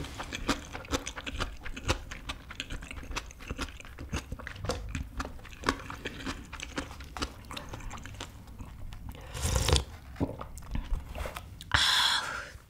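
Close-miked mouth sounds of a person eating rice burger and spicy fire noodles: steady wet chewing with many small clicks and smacks. Near the end come two louder breathy rushes, the second as the spicy heat hits.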